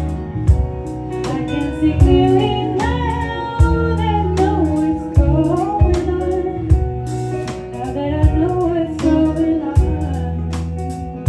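Live band playing a song: a singer comes in about two seconds in over guitar, a steady bass line and drums.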